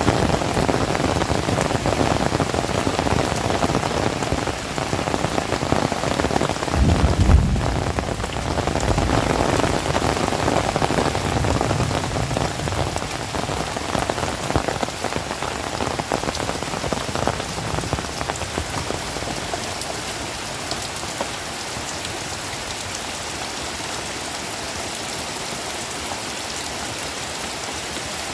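Heavy rain falling steadily, with a brief low rumble about seven seconds in. The rain grows a little quieter in the last third.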